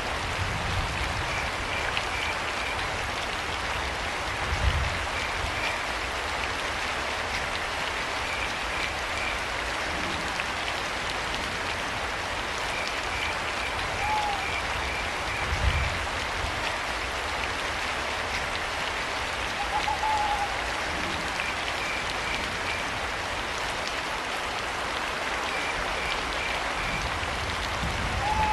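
Steady rain falling, with crickets chirping in short rapid trills every few seconds and an owl giving a few brief hoots. Two low thuds stand out, about a third of the way in and again past the middle.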